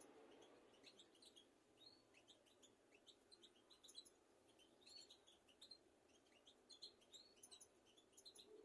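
Faint birdsong: a steady run of short, high chirps and twittering notes, several a second.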